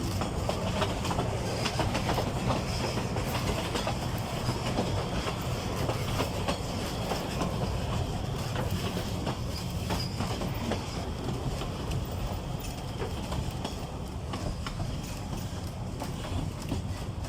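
Narrow-gauge forest railway train hauled by an Mk48 diesel locomotive, running steadily. The engine makes a low, even drone, and the wheels click over the rail joints.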